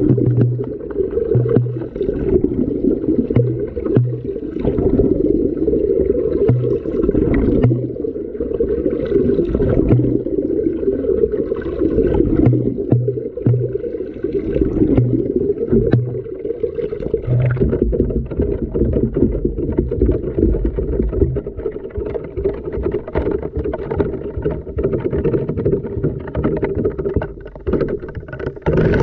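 Washing machine drum heard from inside by a camera tumbling in the wash: water sloshing and gurgling with frequent knocks of the camera against the drum. A low hum comes and goes in short bursts during the first two thirds.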